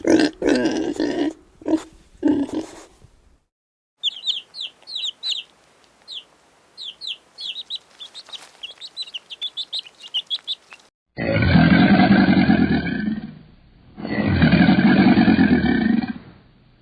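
A run of different animal calls in turn: a dog growling for the first few seconds, then a string of rapid high chirps, then two long, loud, low calls.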